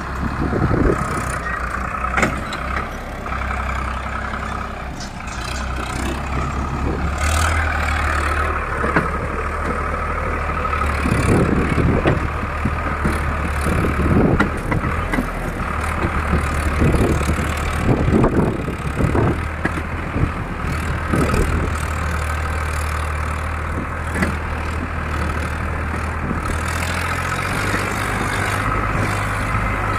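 Diesel tractor engines running steadily, a low engine note that steps up in pitch about a quarter of the way in and again near the end, with irregular louder rumbles in the middle.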